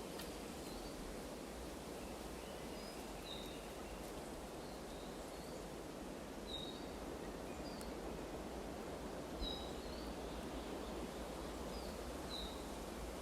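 Forest ambience: a steady rustle of wind in the leaves, with a small bird giving short high chirps about every second or two.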